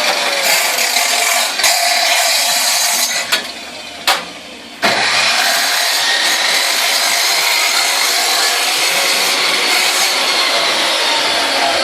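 Gasless wire-feed welder arc crackling steadily while welding a steel expansion chamber, stopping briefly between about three and five seconds in, then going on.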